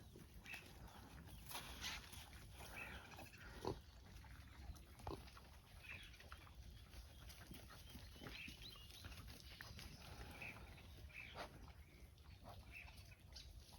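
Kunekune pigs grunting faintly now and then, a dozen or so short sounds scattered through near silence.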